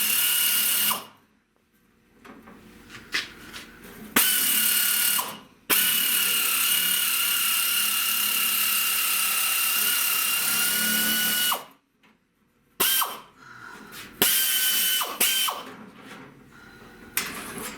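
Power cutting tool cutting sheet metal for a rust-repair patch panel, a steady high whine in repeated runs: a short run at the start, a one-second run, a long run of about six seconds, then a few short bursts near the end.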